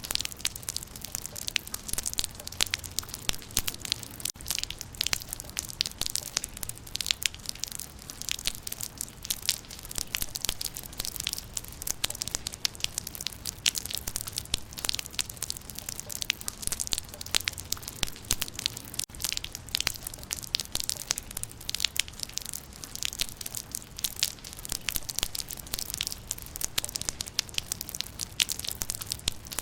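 Raindrops pattering steadily on leaves, a dense crackle of many small drop impacts.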